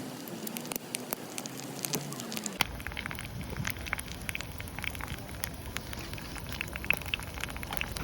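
Hot oil sizzling and spattering as karaage chicken deep-fries in a pot over a campfire, with many small irregular pops and crackles.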